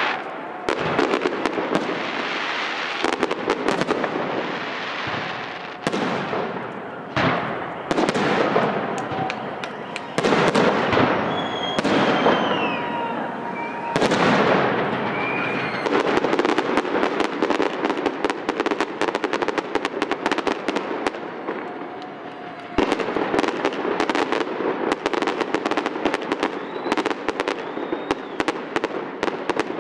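Fireworks display: loud bangs of aerial shells bursting every few seconds, with dense crackling between them. The crackle grows thicker about halfway through and again toward the end.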